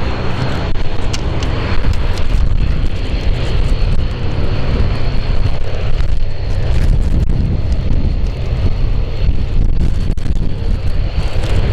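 Strong gusty wind buffeting the microphone, a loud uneven low rumble that rises and falls with the gusts, with a faint steady high whine beneath it.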